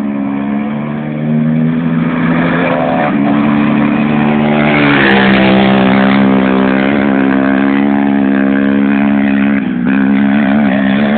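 Loud, steady engine noise from off-road race vehicles. The pitch steps down around three seconds in and again about five seconds in, as a rasp builds when one comes close.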